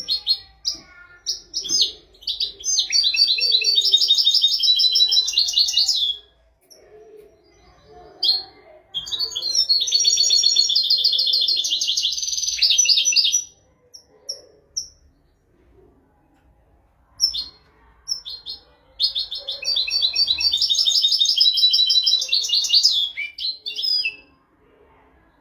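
European goldfinch singing: three long phrases of rapid, high twittering trills, each about four seconds long, with short chirps between. This is a tutor song of the kind played to teach young goldfinches and canaries their song.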